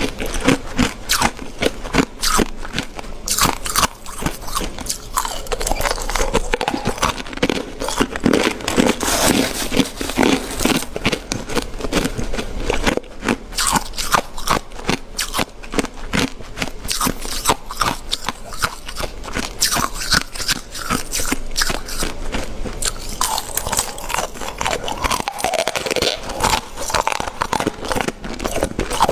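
Ice being bitten and chewed close to the microphone: dense, rapid crunching and cracking with no break.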